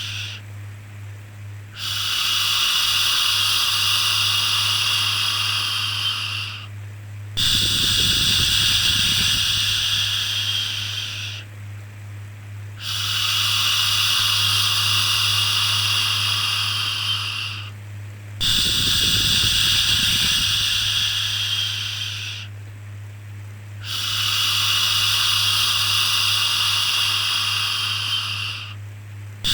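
Long 'shhh' shushing sounds for soothing a baby, each held about four to five seconds, then a short pause, repeating about every five and a half seconds over a steady low hum.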